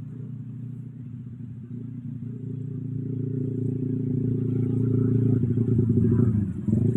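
Strong wind blowing through cogon grass and buffeting the microphone as a deep rumble. It grows stronger over the first few seconds, peaks about five to six seconds in, and eases briefly just before the end.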